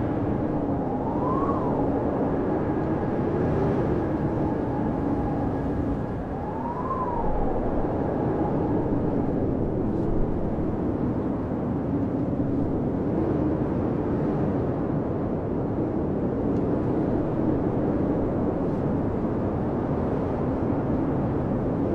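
Blizzard wind blowing hard and steadily, with a wavering howl that twice swells up and falls back in pitch in the first several seconds.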